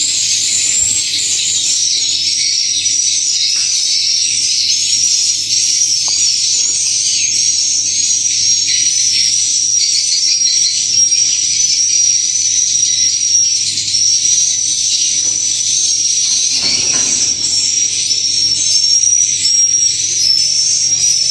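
Dense, high-pitched chirping and twittering of swiftlets, a steady unbroken chorus, with a faint low hum underneath.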